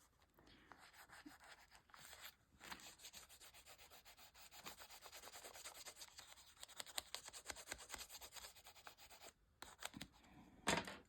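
Water-soluble wax pastel (Caran d'Ache Neocolor II) rubbed back and forth on paper in quick, faint, scratchy strokes, with a brief pause near the end.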